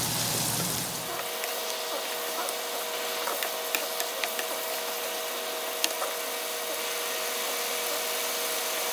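Chicken pieces and ground spices frying in oil in a wok, sizzling, with a wooden spatula knocking against the pan a few times; a steady hum runs underneath. The masala is being fried until the oil separates.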